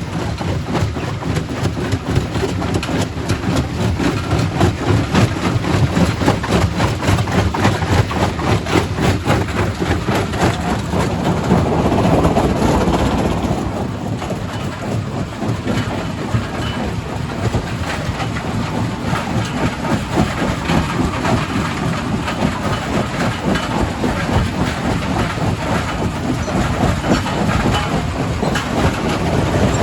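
Quarry primary rock crusher running, stone clattering and breaking in it without a pause, with a louder rumbling spell about twelve seconds in.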